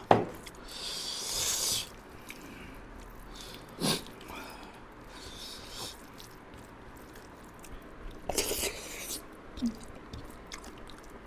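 Close-miked eating sounds: a person chewing and slurping a meal of rice, lentil dal and chicken liver and gizzard, with a couple of sharp clicks and several short breathy hisses.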